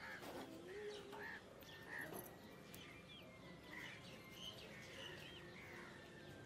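Faint chirping of small birds, many short high notes scattered through.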